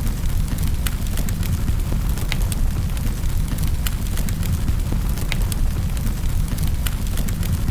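Wood fire crackling in a fireplace: sharp irregular pops and snaps, several a second, over a steady low rumble of the flames.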